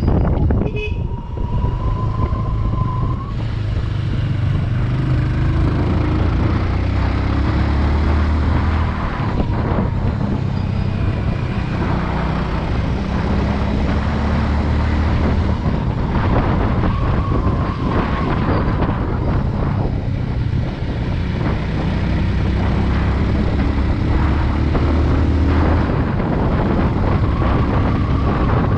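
Motorcycle engine running under way, its pitch rising and falling with the throttle, with wind rushing over the microphone and a steady high whine above it.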